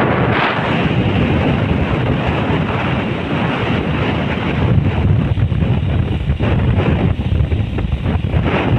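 Wind buffeting the microphone of a motorcycle on the move: a loud, steady rush of wind and road noise, with no distinct engine note.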